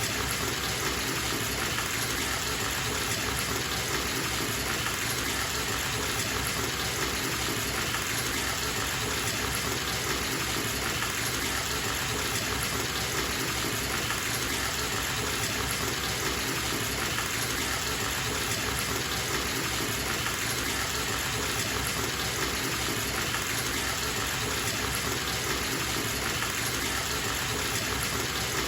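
Bathtub tap running, water gushing into the tub in a steady, unchanging rush.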